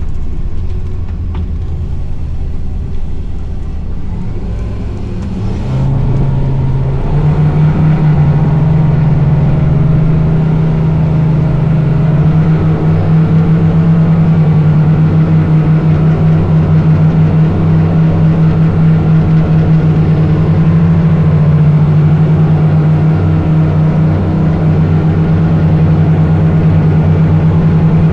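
Tow boat's engine running under load while towing a grounded sailboat free, throttled up in steps about 6, 7 and 12 seconds in, then holding a steady, loud drone.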